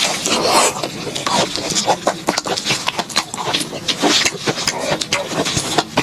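Close-miked chewing of fried enoki mushroom skewers: a fast, irregular run of crunches and wet mouth clicks.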